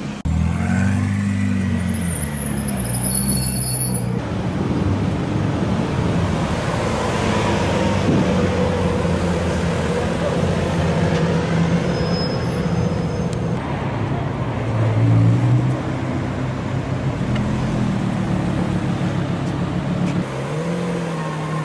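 Supercar engines (Lamborghini Aventador V12s, then an Audi R8) running and being blipped in slow city traffic. The deep engine note rises and falls several times over the traffic noise, with the loudest rev about two-thirds of the way in.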